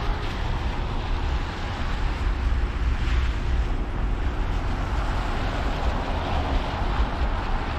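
A vehicle driving: a steady low rumble of engine and road noise with a tyre hiss, heard from inside the cab.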